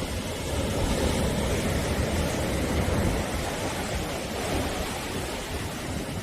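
Sea surf: waves breaking and washing on the shore in a continuous rush, swelling a little about a second in and easing toward the end.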